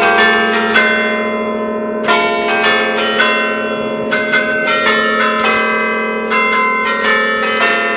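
A set of nine church bells in B-flat, cast by Francesco D'Adda e figli in 1931, rung by hand in a festive allegrezza. The rhythmic strokes come in irregular clusters over a steady, overlapping hum of ringing bells.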